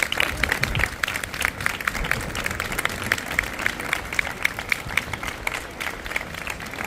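Crowd applauding: many dense, irregular handclaps that go on steadily.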